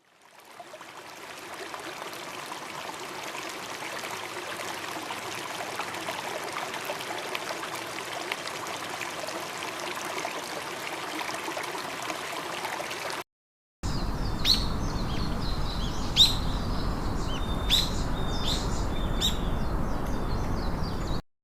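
Rushing water fades in and runs steadily for about thirteen seconds. After a brief gap, a low rumble follows with loud, sharp bird calls repeating about every second and a half.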